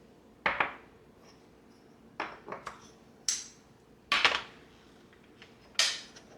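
A series of sharp knocks and clinks, hard objects struck or set down against one another, each with a brief ring; about seven in all, the loudest a cluster a little past the four-second mark.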